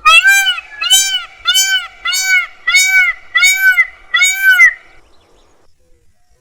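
Indian peafowl (peacock) calling: a rapid series of seven loud, arched calls, a little over one and a half a second, that stops about five seconds in.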